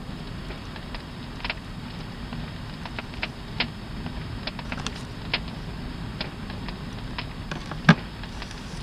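Wood campfire crackling: a steady low hiss with irregular sharp pops, one louder pop near the end.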